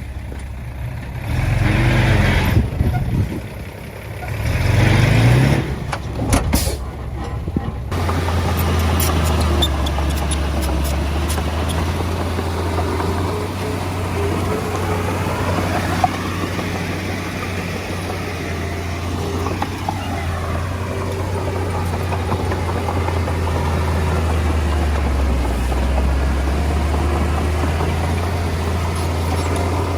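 Heavy diesel engine of earthmoving equipment, surging twice in the first several seconds. About eight seconds in the sound changes abruptly to a steady low diesel drone with a faint whine that rises and falls.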